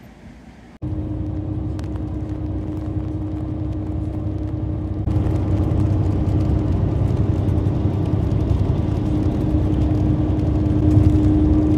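A road vehicle in motion, heard from inside: a steady low rumble of engine and road noise with a constant hum. It comes in abruptly about a second in and grows louder about five seconds in.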